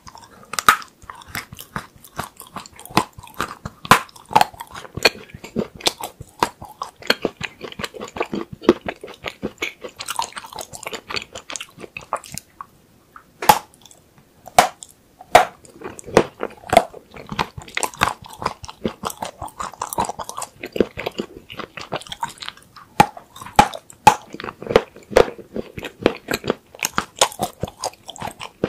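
Close-miked biting and chewing of a frozen chocolate spanner: a steady run of sharp, hard crunches and snaps as pieces are bitten off and chewed, the candy hard because it was frozen. There is a short pause about halfway through before the crunching resumes.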